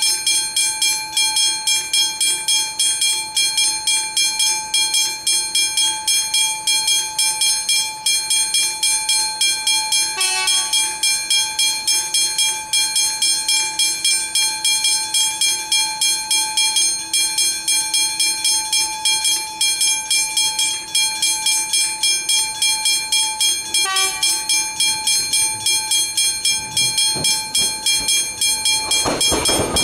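Level crossing warning bells ringing continuously in rapid, even strokes. Two brief tones sound over the bells, about ten seconds in and again near twenty-four seconds. Just before the end, the noise of an approaching train starts to build.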